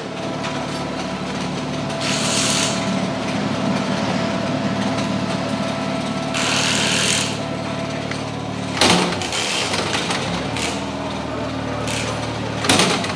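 Cupra Leon Competición TCR's 2.0-litre TSI turbocharged four-cylinder engine idling steadily. Two short hissing bursts sound over it, and two sharp knocks come in the second half.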